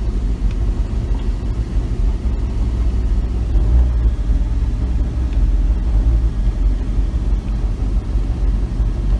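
Chevrolet Silverado pickup driving slowly, a steady low rumble of engine and road noise.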